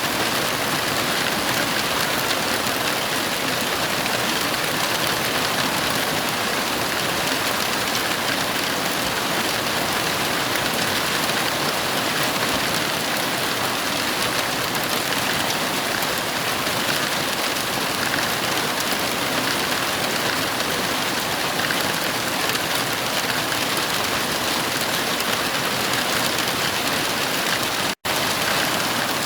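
Heavy rain falling in a steady, even hiss with no thunder. The sound drops out for an instant about a second before the end.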